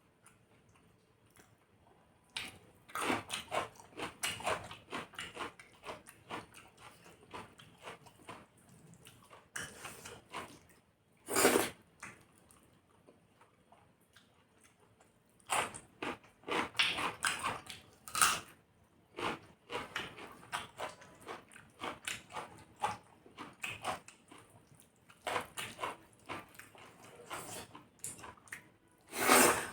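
Close-up chewing and mouth sounds of a person eating chicken curry with rice: runs of short wet smacks and clicks, with two louder, longer mouth sounds, one about eleven seconds in and one right at the end.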